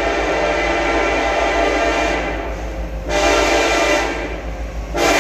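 Locomotive air horn sounding a chord in repeated blasts over the low rumble of the approaching train: one long blast, a short blast about three seconds in, and another starting near the end.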